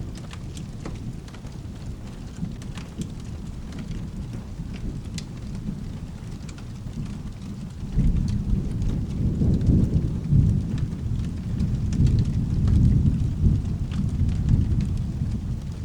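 Steady rain with a low background rumble and scattered small ticks; about halfway through, a loud roll of thunder breaks in and rumbles on for several seconds, easing near the end.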